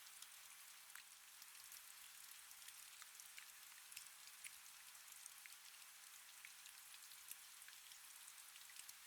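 Faint, steady rain: a soft hiss with many small drop ticks scattered through it.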